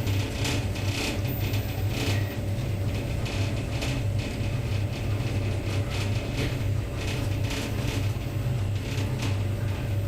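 Passenger carriage of a moving train heard from inside: a steady low rumble of the running gear, with irregular clicking and rattling throughout.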